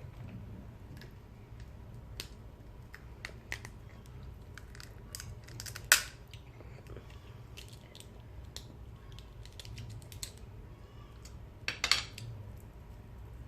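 Eating sounds at a meal of fried fish and crab: scattered small clicks and crunches, with two sharper cracks, one about six seconds in and one near the end.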